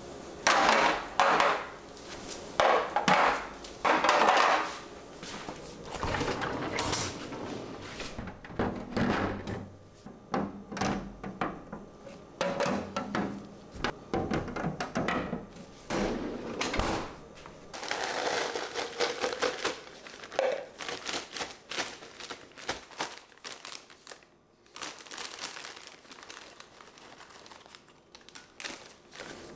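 Objects being handled: a few loud rustling bursts in the first few seconds, then a run of small knocks and thunks with some crinkling, like containers and packaging being moved about.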